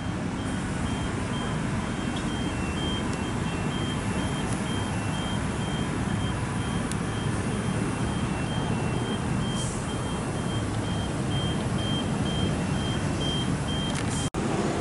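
A reversing alarm beeping at an even pace, about two high-pitched beeps a second, over a steady loud low rumble.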